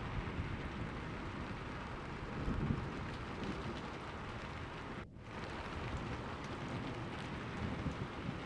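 Steady rain falling, with a low rumble of distant thunder swelling about two and a half seconds in. The sound drops out for a moment about five seconds in, then the rain carries on.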